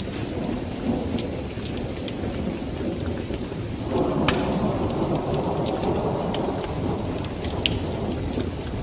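Wood fire crackling with scattered sharp pops, over the steady noise of a rainstorm. About four seconds in, a low roll of thunder swells up and carries on.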